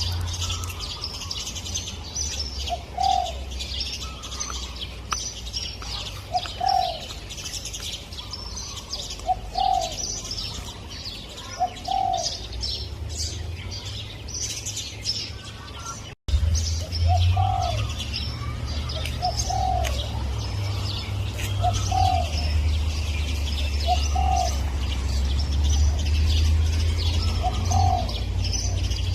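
Spotted dove cooing, one short low coo phrase every two to three seconds, over continuous high chirping of small birds and a steady low hum. The sound drops out for a moment about halfway.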